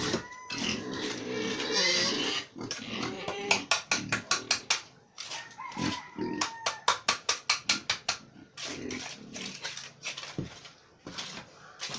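Pigs grunting, with two runs of sharp clicks or knocks at about five a second in the middle.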